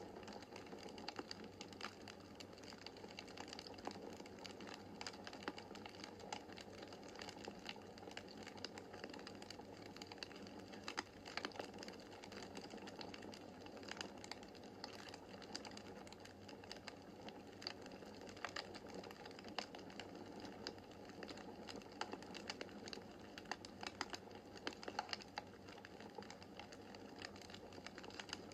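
Wood fire crackling in a fireplace: a steady soft hiss of burning logs with frequent, irregular sharp pops and snaps.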